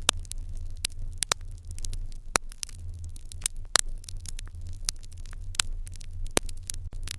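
Wood fire crackling in an irori hearth: irregular sharp pops and snaps, a few each second, over a low steady rumble.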